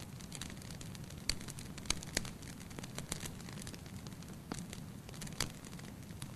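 Wood fire burning in a fireplace: a steady low rumble of flames with irregular sharp crackles and pops, a handful of them louder than the rest.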